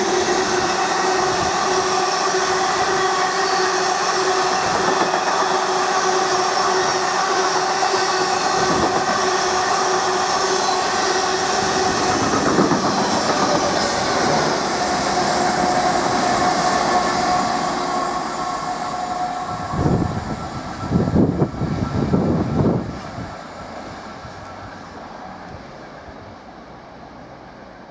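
Freight train passing at speed: a steady rush of wagons on the rails with several held wheel tones. Near the end the sound gives way to a few low thumps, then fades as the train goes by.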